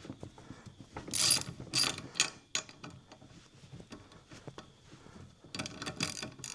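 Ratchet wrench clicking in short runs as it works the nuts on the suspension U-bolts: a burst of rapid clicks about a second in, a few single clicks after it, and another run near the end.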